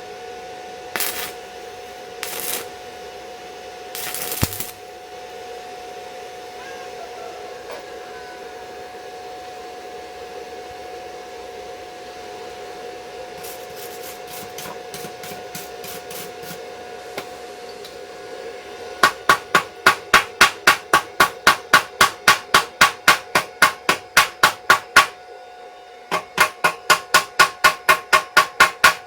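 A steady hum underneath a few single sharp knocks, then two long runs of rapid, even hammer blows on metal, about four a second, starting about two-thirds of the way in: the kind of chipping-hammer work used to knock slag off a 7018 stick weld on a motorcycle frame.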